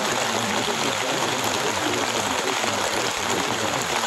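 Recorded rain falling steadily, an even hiss with no breaks.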